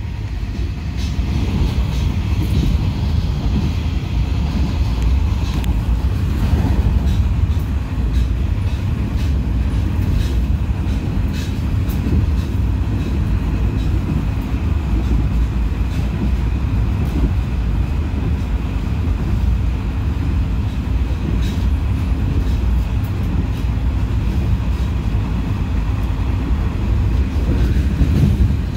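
Moving passenger train: a steady low rumble of wheels on rails, with scattered faint clicks.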